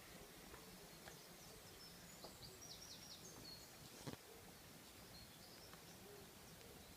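Near silence with faint, high bird chirps a couple of seconds in and one soft click about four seconds in.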